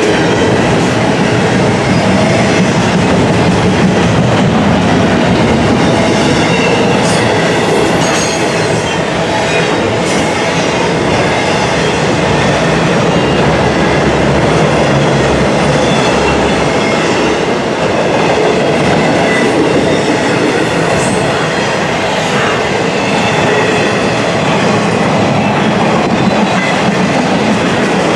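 Intermodal container train's freight cars rolling past: a steady, loud rumble of steel wheels on rail with occasional clicks and a faint thin high ringing from the wheels.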